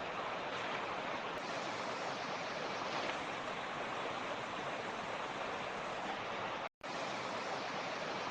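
Mountain creek flowing steadily, an even rushing of water over stones. The sound cuts out for an instant about two-thirds of the way through, then resumes unchanged.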